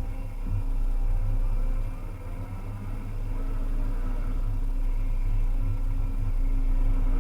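Diesel engine of a Volvo EC300EL excavator running steadily under work, with a steady drone. It eases off about two seconds in and picks back up.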